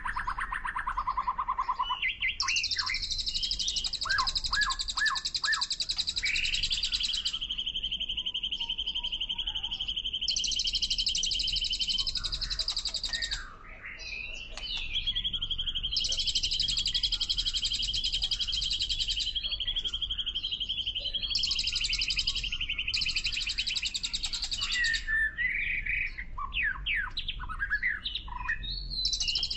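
Birds chirping and calling over long, high-pitched buzzing trills that start and stop every few seconds.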